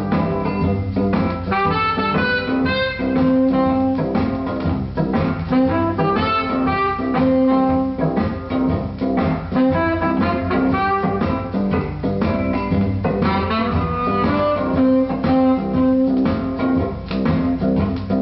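A 1960s pop record playing: band music with held notes over a busy rhythm.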